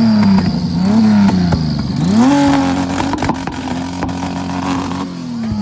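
Car engine being revved hard: quick blips, then held at high revs for about three seconds and falling away near the end, with a few sharp cracks while it is held.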